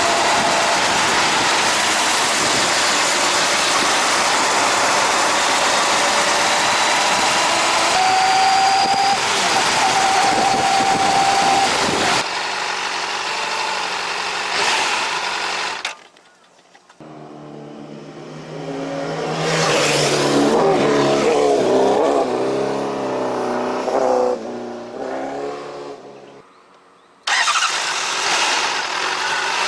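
Honda CBR600RR ridden with a helmet-mounted camera: wind rush and engine, with a steady high tone for a few seconds. After a sudden break, a quieter pitched sound that wavers up and down for several seconds, then the wind rush returns.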